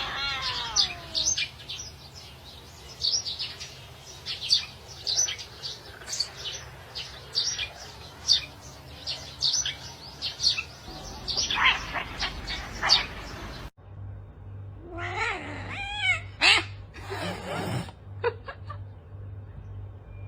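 Domestic cat meowing: a falling meow at the start and several more wavering meows past the middle, among many short high chirps in the first half. The sound cuts abruptly partway through, as between two clips.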